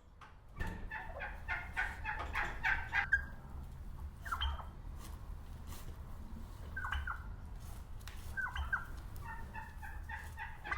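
Wild turkeys calling: a quick run of notes in the first three seconds, then several short falling calls a couple of seconds apart, and another run of notes near the end, over a steady low rumble.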